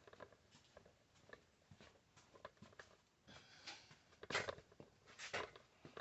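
Faint clicks and rustles of small parts being handled, with two louder short scraping knocks near the end.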